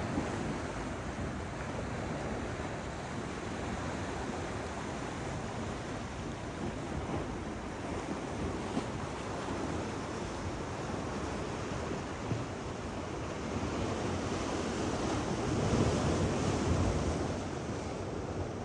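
North Atlantic Ocean waves washing, with wind buffeting the microphone. The sea surges louder for a couple of seconds near the end.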